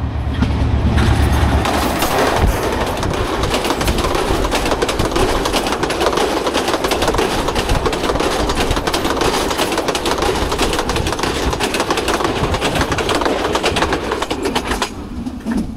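Bangladeshi express passenger train passing at speed a few metres away, loud. It opens with a deep rumble in the first two seconds, then its coaches' wheels rattle and clatter on the rails in dense, rapid clicks. The noise stops abruptly near the end.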